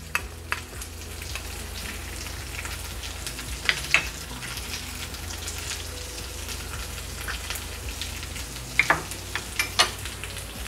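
Vegetables, soaked chana dal and whole spices sizzling in oil in a frying pan on a gas hob. There are scattered crackles and pops, a few louder ones about four seconds in and near the end, over a low steady hum.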